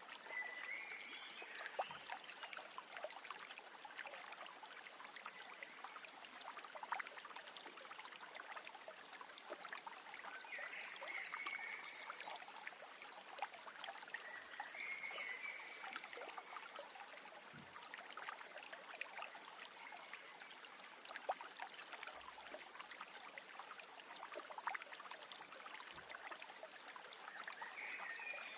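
A stream running steadily, with a few short bird calls now and then.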